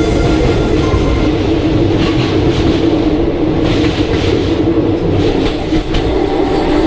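Passenger train running along the track: a loud, steady rumble of wheels on rail.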